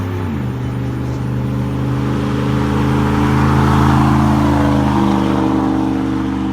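2003 Dodge Ram 1500's 5.9-litre V8 running through a straight-pipe exhaust with no catalytic converters and no muffler, ending in an 8-inch axle dump. It settles to a slightly lower pitch just after the start, then holds a steady, even idle.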